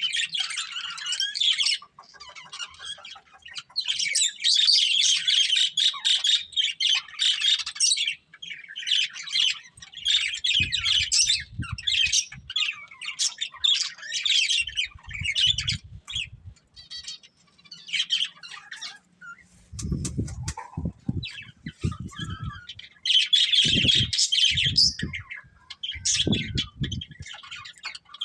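Pet budgerigars chirping in rapid bursts a few seconds long, separated by short pauses. Low dull thumps come in several times during the second half.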